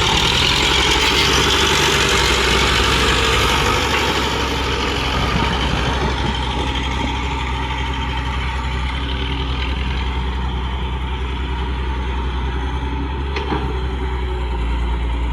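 Engine sound of an RC construction machine running steadily at idle, with a low, even hum. A higher hiss is strongest for the first few seconds, then eases. A single click near the end.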